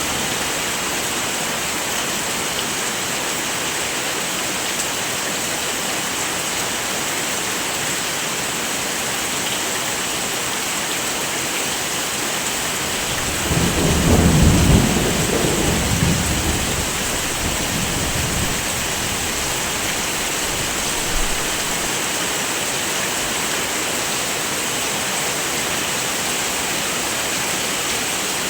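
Steady hiss of heavy rain, with a roll of thunder rumbling up about halfway through, loudest for a couple of seconds, then fading away over a few more.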